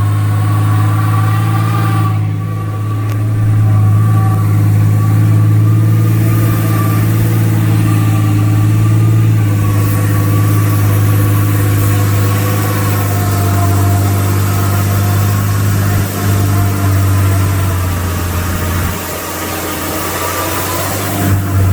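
Vehicle engine and road noise heard from inside the cab: a steady, loud drone that eases off near the end.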